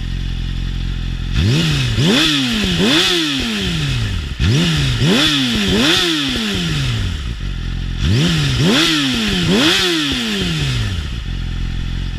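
Yamaha R6 inline-four running through an aftermarket CPS titanium exhaust, idling and blipped by the throttle six times in three pairs. Each rev rises quickly and drops back to idle more slowly.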